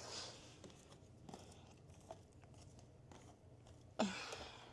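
Faint rustling and small clicks of something being handled, over a low steady hum, with a short louder sound about four seconds in.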